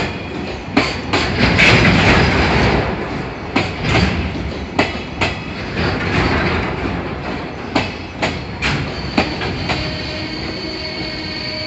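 A train running along the platform, its wheels clacking over rail joints in pairs. A steady high squeal comes in near the end.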